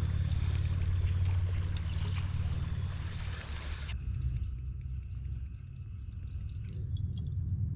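Outdoor ambience on a river kayak: a steady low rumble with water noise and a few faint clicks. The higher hiss drops away suddenly about four seconds in.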